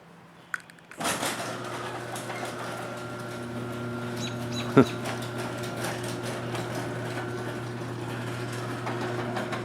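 An electric garage door opener starts about a second in and runs with a steady mechanical hum as an old up-and-over garage door closes. There is one sharp clunk midway.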